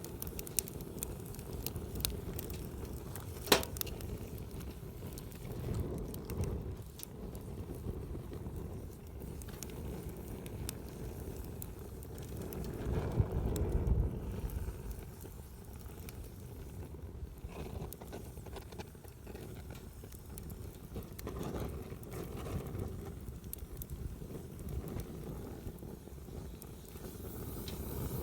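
Wood campfire crackling, with scattered small pops and one sharper pop a few seconds in, over a low rumble that swells about halfway through.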